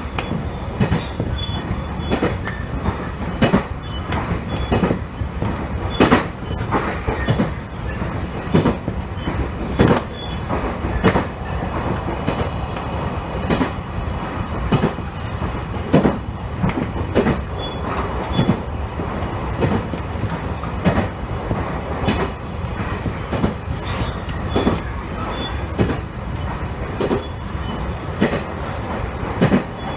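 Train running along the line, a steady rumble with the clack of wheels over rail joints about every second or so.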